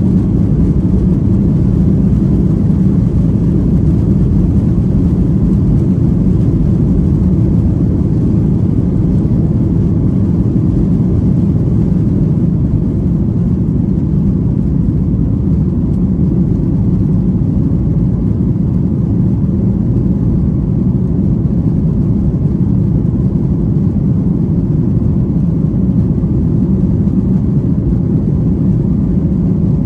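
Steady engine and airflow noise of a Boeing 737-800, with its CFM56-7B turbofans, heard inside the passenger cabin while the jet climbs out after takeoff. A deep, even rumble with no changes.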